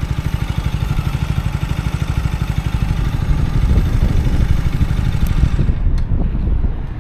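KTM Duke 125's single-cylinder four-stroke engine running through an Akrapovic exhaust with an even, low pulsing beat. It grows louder from about halfway, and near the end the hiss above it drops away.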